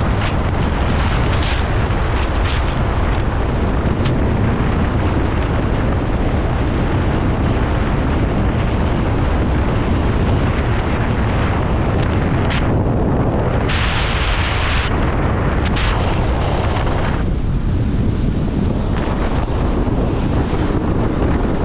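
Wind buffeting the microphone with road noise from a moving car: a steady, loud rumble.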